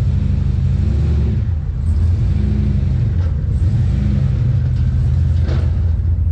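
Truck engine running close by: a steady low rumble that rises slightly in pitch about every second and a half.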